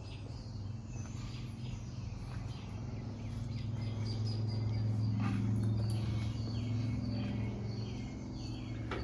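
Birds chirping in short repeated calls over a steady low hum that swells in the middle and then eases.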